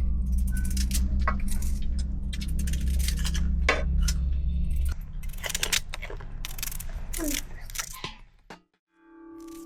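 Repeated light clinks and taps of small hard objects being handled, over a steady low hum that cuts off about five seconds in. The sound drops briefly to near silence near the end.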